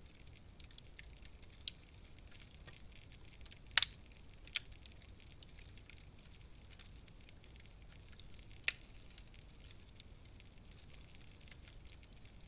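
Wood fire crackling in a fireplace: scattered sharp pops and snaps at irregular intervals over a faint hiss, the loudest a double pop about four seconds in.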